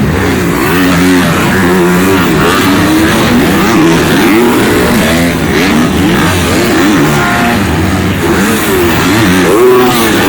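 Several supercross dirt bikes on the track, engines revving up and dropping back again and again as riders work the throttle through jumps and corners, their engine notes overlapping.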